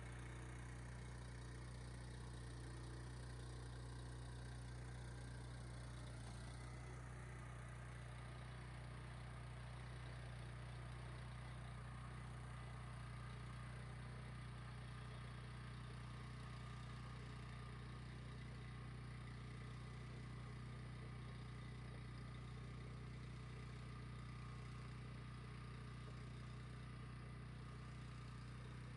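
The gas engine of a heavy walk-behind tiller running steadily after being pull-started, a constant low hum.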